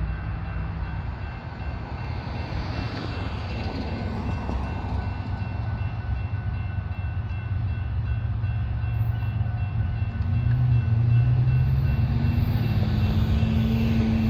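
Train rumbling steadily with a deep low drone and faint thin high tones. It grows louder over the second half.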